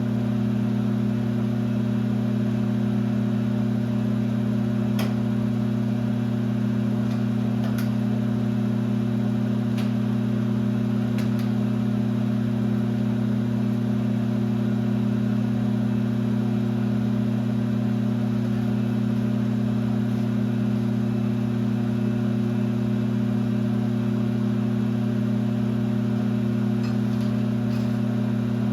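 1966 LeBlond geared-head lathe running steadily, giving off a constant deep hum, with a few faint ticks now and then.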